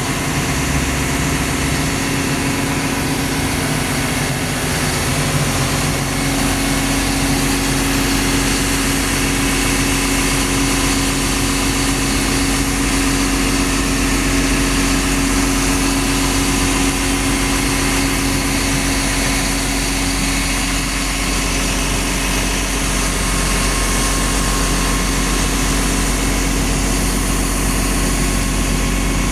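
Liugong CLG922E crawler excavator's Cummins diesel engine running steadily at idle, with a steady hum that grows stronger about six seconds in.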